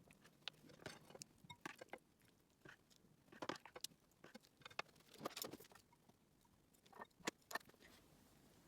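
Faint, irregular light clicks and soft rustles of kitchen utensils and dishes being handled, a few small taps at a time.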